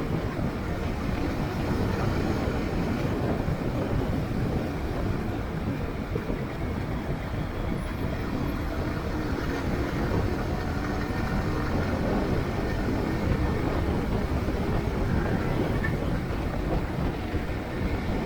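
Steady low rumble of a moving vehicle, continuous and even, with no distinct events.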